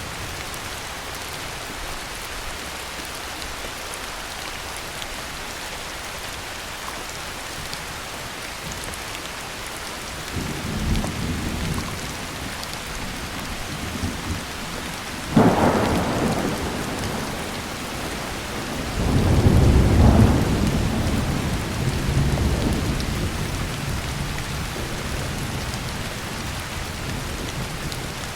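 Heavy rain falling steadily, with thunder: a low rumble about ten seconds in, a sudden sharp clap around the middle, then a longer, louder low rumble that slowly fades.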